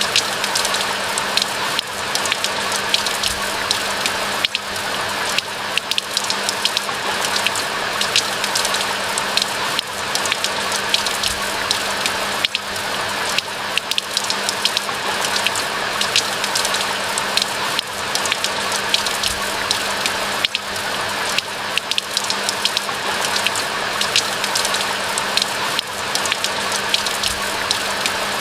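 Steady rain falling, a dense hiss with many close, crisp drop ticks throughout.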